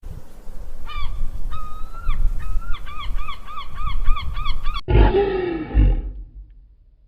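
Large waterbirds calling outdoors in a run of short, pitched calls that quicken to about four a second. About five seconds in, this cuts to a louder, lower animal call lasting about a second.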